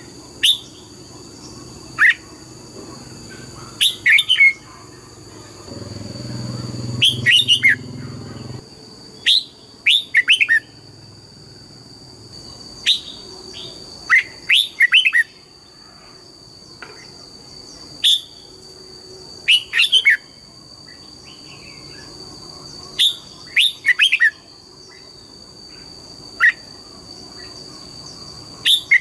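Red-whiskered bulbul singing: short, loud, falling whistled phrases, often two or three notes together, repeated every second or two. A steady high-pitched tone runs underneath, and a low hum comes in briefly from about six to eight seconds in.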